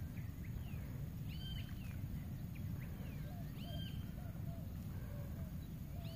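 Birds calling over a steady low background rumble. A short arched call repeats about every two seconds, and lower wavering calls join about halfway through.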